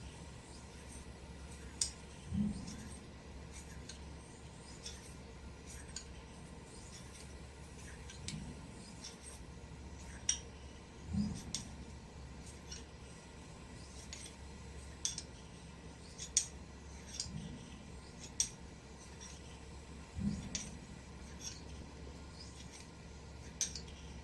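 Short, crisp strokes of a Japanese kamisori razor blade, a sharp tick about once a second, with a soft low thud every few seconds.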